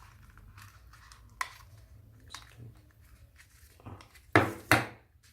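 Camera accessories and packaging being handled during an unboxing: a few light clicks, then two sharp knocks close together about four and a half seconds in.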